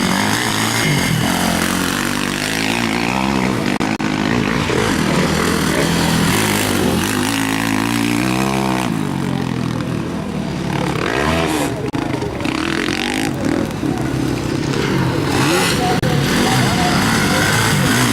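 Several motocross bikes racing round a dirt track, engines revving up and down through the gears as they pass; one bike's engine rises and falls sharply about halfway through.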